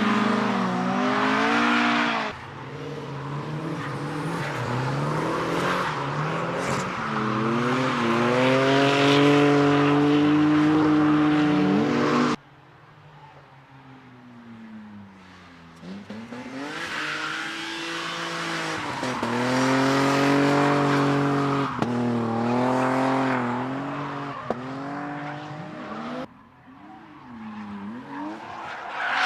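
Retro cars' engines revving hard and lifting off, their pitch climbing and falling as they drift past, with tyre squeal. The sound changes abruptly about 2, 12 and 26 seconds in, as one clip cuts to the next.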